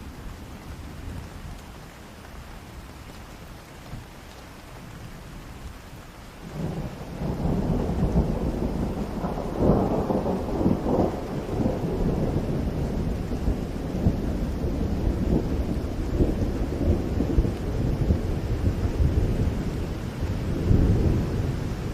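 Steady rain with a long, low roll of thunder that builds about six seconds in and keeps rumbling, swelling again near the end.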